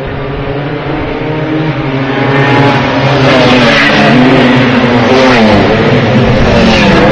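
Classic two-stroke racing motorcycles coming closer, growing louder over the first three seconds, their engines revving with pitch that climbs and dips repeatedly.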